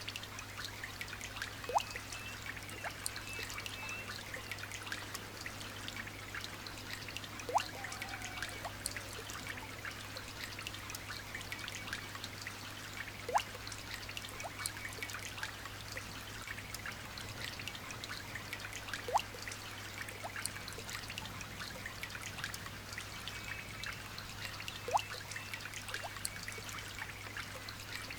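Light rain falling steadily, a hiss of fine drips, with a louder plink of a drop about every six seconds, five times in all. Faint high bird chirps come and go, over a steady low hum.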